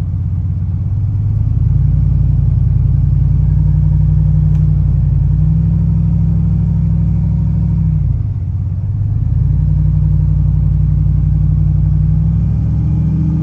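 Cammed twin-turbo LS V8 accelerating with its exhaust cutout open. The engine note climbs about a second and a half in and holds, eases off briefly around eight seconds, then pulls again before dropping back near the end.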